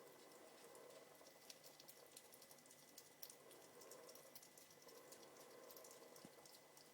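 A hedgehog chewing and crunching its food: faint, quick, irregular clicks.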